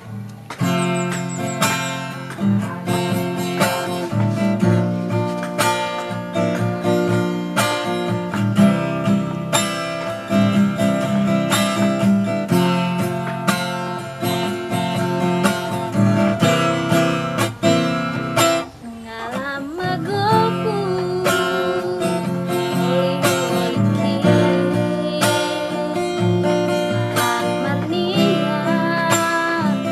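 Acoustic guitar strummed in a steady rhythm; about two-thirds of the way through, a woman's singing voice comes in over it.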